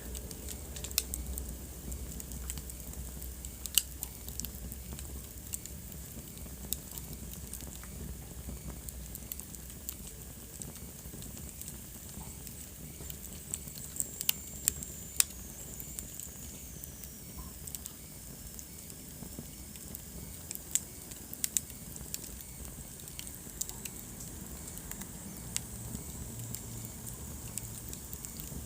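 Wood fire burning in a fireplace, crackling steadily with frequent sharp pops over a soft hiss and low rumble. About halfway through, a faint high whistle slides down in pitch.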